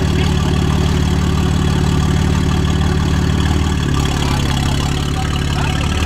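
BMW M3 Touring's tuned twin-turbo straight-six idling steadily through its quad exhausts, the idle dipping slightly about four seconds in.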